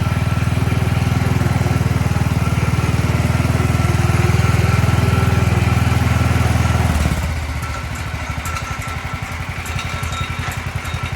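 1967 Sears Super 12 garden tractor's Tecumseh single-cylinder engine running steadily at a fast speed. About seven seconds in it drops to a slower, quieter speed and keeps running smoothly.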